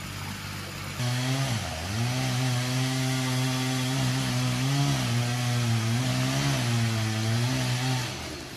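Chainsaw engine at high revs, cutting into a tree trunk during felling. It comes in suddenly about a second in, its pitch dips sharply just after as it loads up, then holds fairly steady with slight wavers before dropping away about half a second before the end.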